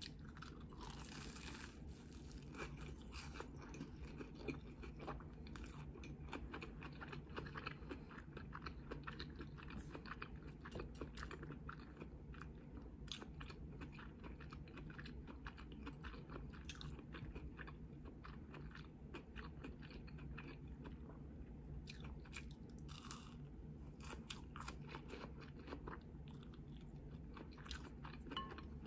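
A person biting into and chewing a deep-fried Korean corn dog with a crunchy crumb coating: a steady run of crisp crunches and chewing sounds.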